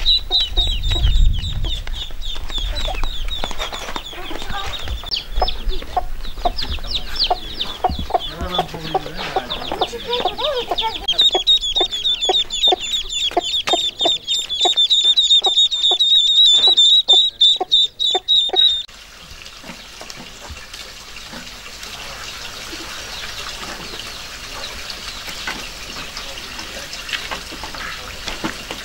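Chickens clucking, with many rapid high-pitched peeping calls. It cuts off suddenly about two-thirds of the way through, leaving a quieter, steady background.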